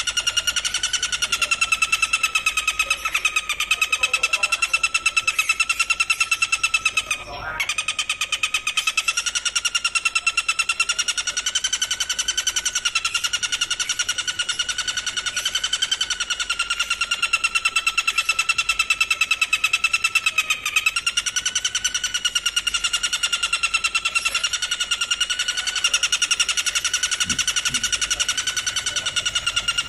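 Insect trill as used in songbird training recordings: a loud, unbroken, fast-pulsing buzz that wavers slightly in pitch, with a brief drop about seven seconds in.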